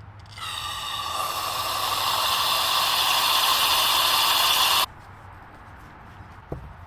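A pressurised spray hissing steadily for about four and a half seconds, growing slightly louder, then cutting off abruptly as it is released. A small knock follows near the end.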